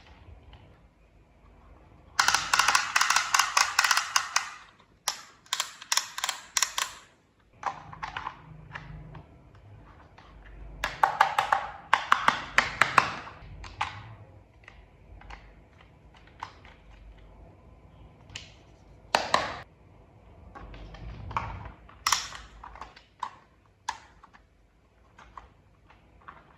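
Small plastic toy parts handled and fitted together: sharp clicks and rattles, with dense runs of rapid clicking about two, five and eleven seconds in and scattered single clicks between.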